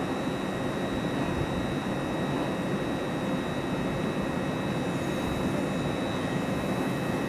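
A train standing at the platform with its engines running: a steady, even rumble with a constant high-pitched whine over it.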